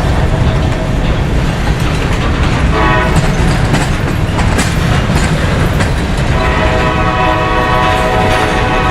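A train rolls past with a steady heavy rumble while the locomotive's horn sounds a multi-note chord: a short blast about three seconds in, then a long blast from about six seconds in.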